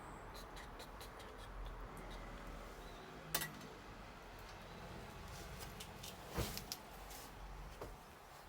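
Campfire crackling: scattered small pops from the burning wood, with two louder sharp pops, one about three and a half seconds in and another about six and a half seconds in.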